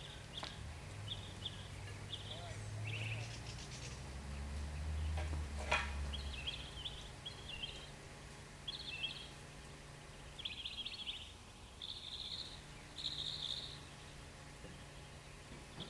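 Small birds chirping in short repeated bursts over a low steady hum, with a single sharp click about six seconds in.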